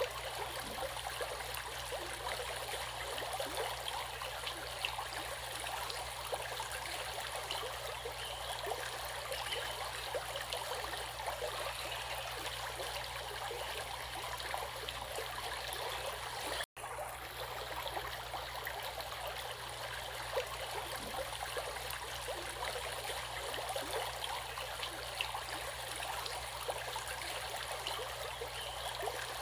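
Running stream water, a steady babbling and trickling. The sound cuts out for a split second a little past halfway, then resumes unchanged.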